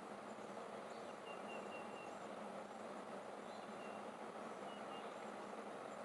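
Faint outdoor ambience: a steady low hiss with a few brief, high bird chirps scattered through it.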